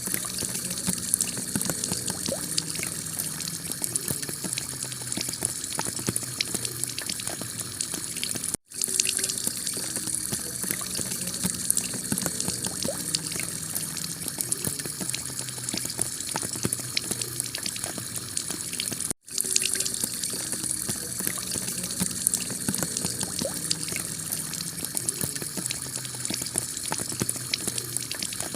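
Heavy rain pelting clay roof tiles, a dense steady patter of countless drops with water running off. The sound cuts out for an instant twice, about nine and nineteen seconds in.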